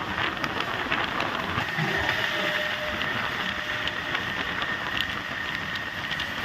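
Freight train wagons rolling on the rails: a steady rumble with scattered sharp clicks, and a thin, steady high-pitched squeal that joins about two seconds in.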